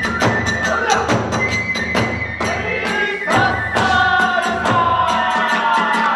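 Hiroshima kagura music: taiko drum and tebyōshi hand cymbals beating a fast, even rhythm, with a bamboo flute holding a high note over it.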